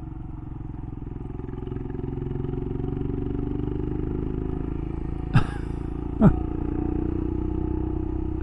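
Royal Enfield Himalayan's single-cylinder engine running steadily while riding uphill, getting louder about two seconds in. Two short voice sounds falling in pitch come about five and six seconds in.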